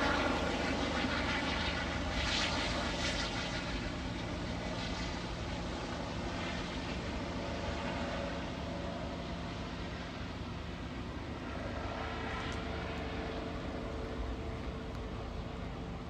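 Helicopter flying, a steady engine and rotor noise that slowly fades.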